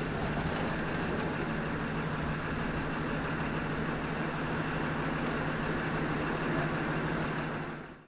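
Steady low hum and rumble of trains standing at a station platform, with a constant low droning tone, fading out near the end.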